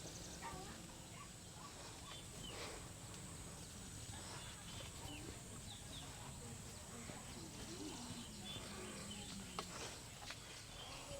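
Faint, scattered short bird chirps over a steady low hum, with faint voices in the background.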